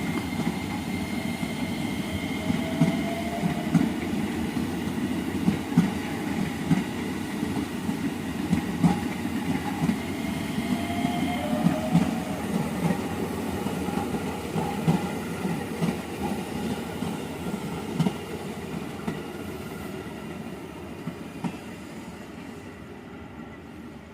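JR 205 electric commuter train passing slowly, its wheels knocking unevenly over the rail joints, with a thin steady whine during the first half. It fades away over the last few seconds.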